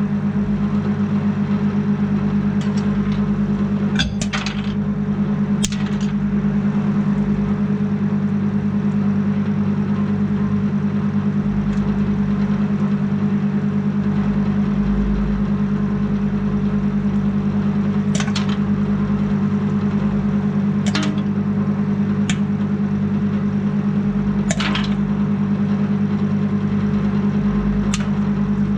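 Microwave oven running with a steady electrical hum. Sharp pops break in about ten times at uneven intervals, typical of popcorn kernels popping inside.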